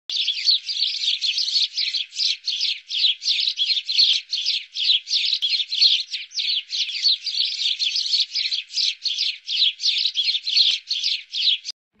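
Bird chirping in a fast, even series of short high calls, about two or three a second, which cut off suddenly near the end.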